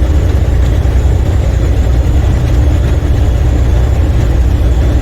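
Semi truck's diesel engine and road noise droning steadily inside the cab while driving.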